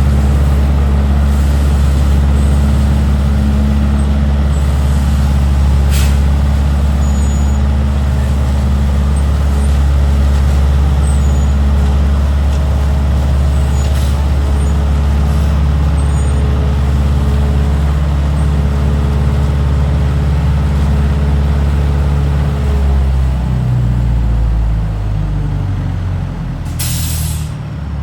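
Leaf collection truck's diesel running steadily with a deep drone, which shifts pitch and winds down about five seconds before the end. A short air brake hiss comes near the end.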